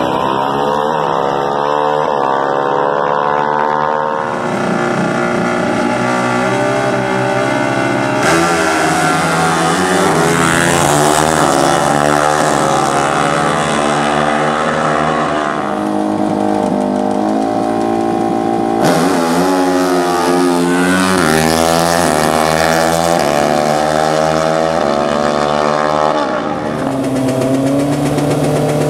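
Racing engines revving hard and shifting up through the gears, the pitch climbing and dropping again and again, typical of drag-racing ATVs and motorcycles under full throttle.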